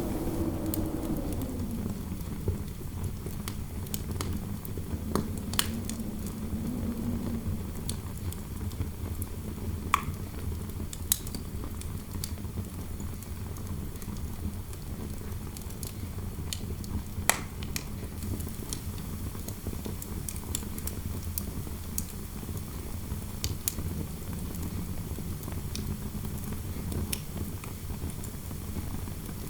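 Fireplace fire crackling with scattered sharp pops, over a steady low rumble of wind heard from indoors. A low wind howl rises and falls in the first few seconds.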